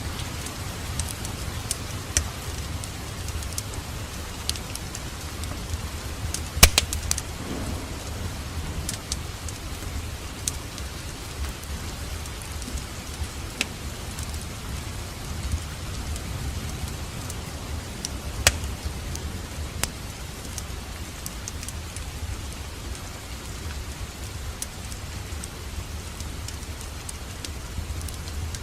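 Wood fire in a fireplace crackling, with scattered sharp pops over a steady low rumble of the flames; the loudest pop comes about six and a half seconds in.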